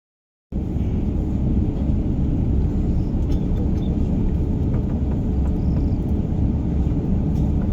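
Cabin noise inside an Airbus A350-900: a steady low rumble from the Rolls-Royce Trent XWB engines and airframe with a constant hum, starting about half a second in.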